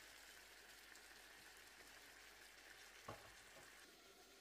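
Faint sizzling of food frying, with a single soft click about three seconds in.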